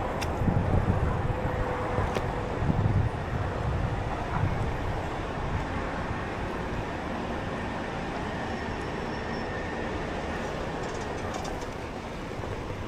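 Steady low rumble with wind buffeting the microphone in gusts during the first few seconds, then settling and easing slightly.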